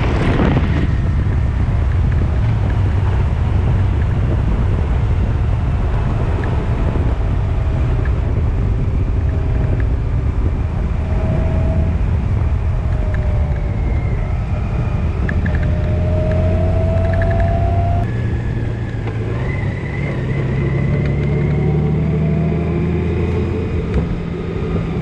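A vehicle driving: steady engine and road rumble. The engine note rises several times in the middle and changes at about 18 seconds, as the vehicle speeds up and then shifts or eases off.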